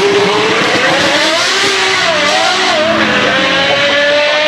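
A supercar engine revving hard as the car accelerates away. Its pitch climbs over the first second and a half, wavers briefly, then holds high and steady.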